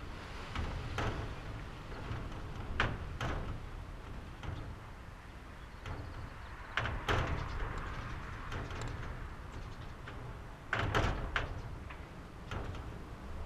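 Loosely fitted doors and windows of a traditional Japanese house rattling and knocking in their frames under gusts of wind, over a steady low wind rumble. Sharp knocks come in small clusters, about three, seven and eleven seconds in.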